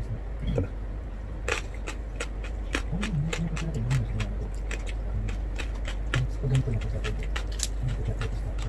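Close-up chewing and mouth-smacking of roast pork eaten by hand, many short wet clicks at an uneven pace, with a few brief low hums from the eater.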